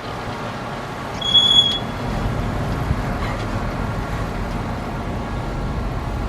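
Heavy earthmoving machine's diesel engine running steadily, its low rumble growing louder about two seconds in as it works, with one brief high-pitched squeal just after a second in.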